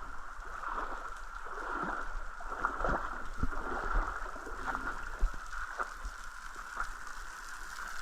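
Small waterfall splashing and trickling into a pool: a steady rushing hiss with irregular drips and splashes.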